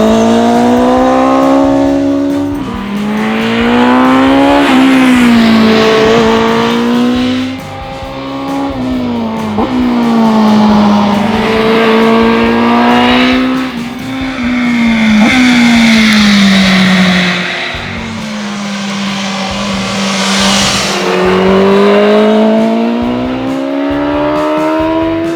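BMW M 1000 R inline-four engine running through an Akrapovic exhaust under hard riding. Its pitch climbs and drops back sharply several times as it upshifts through the gears, and in between it holds a steadier note or winds down off the throttle.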